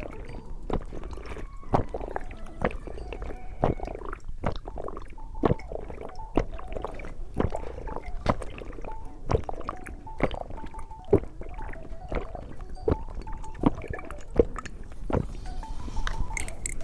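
Candy being chewed close to the microphone: irregular wet squishes and sharp clicking snaps, several a second. Quiet background music plays underneath.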